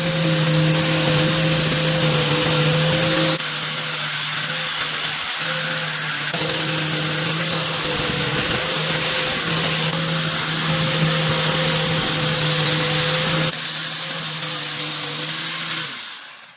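An electric power tool running steadily at full speed, with a high whine over a dense grinding noise. The sound shifts abruptly in level a few times and dies away near the end.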